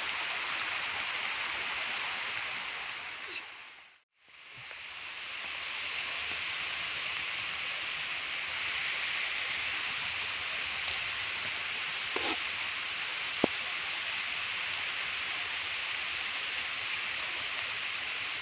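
Steady rain falling, an even hiss with no pauses. It fades out briefly and comes back about four seconds in. A single sharp tick comes near the three-quarter mark.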